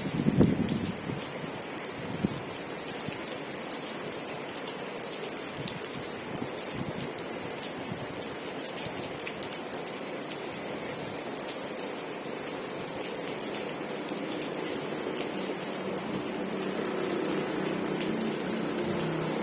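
Steady rain falling, an even hiss with scattered drop ticks. A faint low hum builds in the last few seconds.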